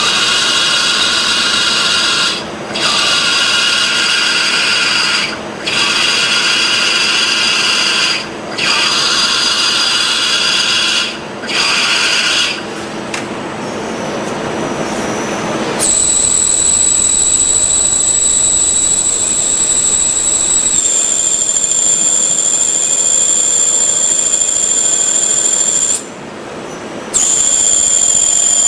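Milling machine running and cutting, with short breaks about every three seconds between passes. About halfway through the sound changes to a steady high-pitched whine, which steps down slightly in pitch a few seconds later and drops out briefly near the end.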